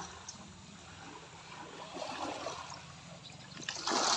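Water trickling and lapping, with a louder splash near the end.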